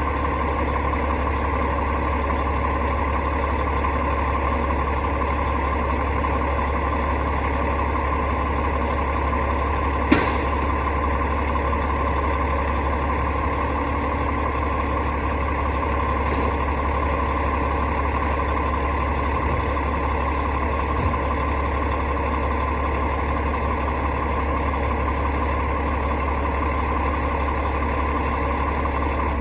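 Rooftop HVAC unit running with a steady mechanical hum and drone, with one sharp click about ten seconds in.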